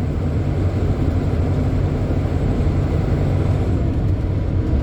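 Semi-truck cruising on the highway, heard from inside the cab: a steady low engine drone and road rumble.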